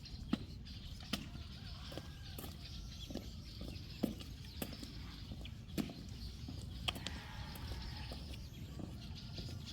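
Hens clucking faintly, with about eight irregular sharp knocks scattered through and a steady low rumble underneath.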